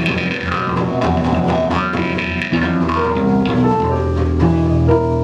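Live band playing the instrumental opening of a blues song: plucked strings over bass guitar, with the band growing fuller and louder about two and a half seconds in.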